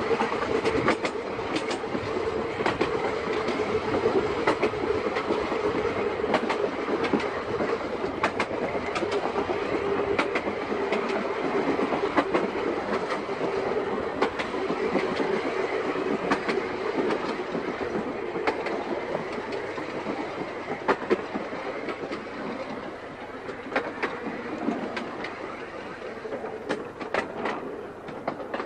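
Seaton Tramway electric tramcar running along the track: a steady hum from the motors under the running noise, with irregular clicks as the wheels pass over rail joints. It eases off a little near the end.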